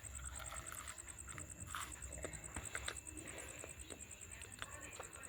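Insects chirping in a steady, fast, high-pitched pulse, with scattered small clicks and crackles.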